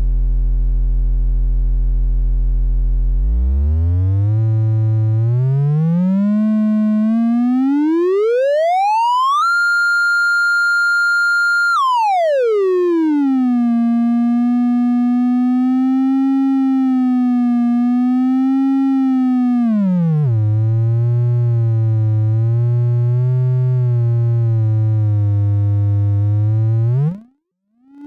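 Synthesis Technology E950 circuit-bent eurorack oscillator sounding a single synth tone. It starts very low and steps upward, glides up to a high held note, and slides back down to a middle pitch that wavers slowly. Then it drops low again and sweeps sharply upward before cutting off near the end.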